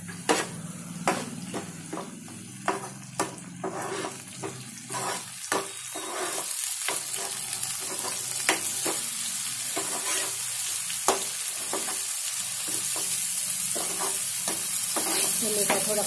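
Chopped tomatoes and onions sizzling in hot oil in a nonstick frying pan while a steel spoon stirs them, clicking and scraping against the pan. The sizzle grows louder from about five seconds in as the freshly added tomatoes start to fry.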